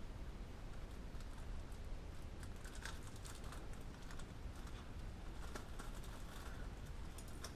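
Faint scattered clicks and light rustling from handling a small paper seed packet and its seeds, over a low steady hum.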